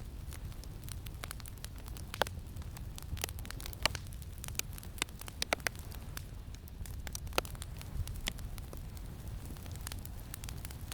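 Campfire crackling, with irregular sharp pops and snaps, thickest in the middle, over a steady low rumble of wind.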